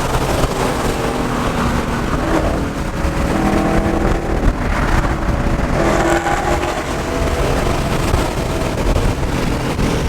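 Ford Coyote 5.0 V8 car engine running under way, its note rising and falling with the throttle over steady road noise.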